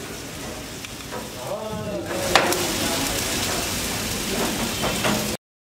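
Chopped vegetables sizzling in hot oil in an iron kadai, the sizzle getting louder about two seconds in, with one sharp metallic clink, as of a ladle against the pan. The sound cuts off suddenly near the end.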